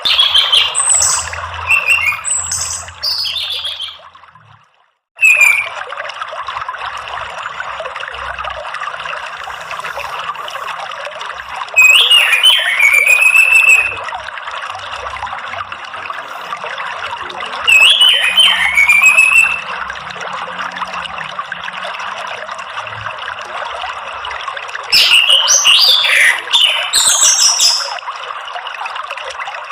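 Orange-headed thrush song over steady running water: short bursts of whistled, gliding phrases with high trills, each lasting about two seconds and coming every six seconds or so. The sound cuts out completely for about a second shortly after the start.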